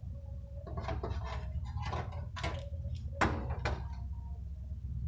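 A series of clicks and knocks from tools and metal parts being handled while a replacement capacitor is fitted and wired, with the loudest knock about three seconds in, over a steady low hum.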